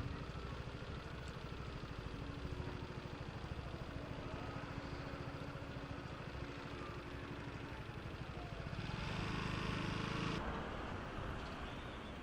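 Vehicle engines running with a steady rumble while an emergency siren wails faintly in the background. A louder rushing noise swells about nine seconds in and cuts off a second and a half later.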